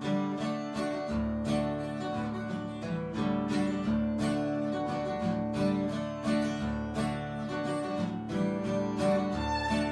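Acoustic guitar strumming the intro of a folk-rock song in a regular rhythm, with a bass guitar coming in about a second in.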